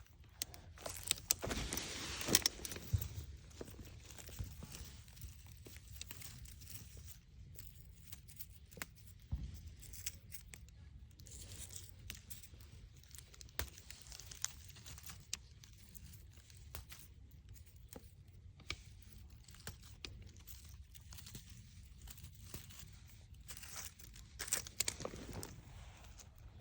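Close rustling, crinkling and clicking handling noises, louder for a couple of seconds near the start and again near the end.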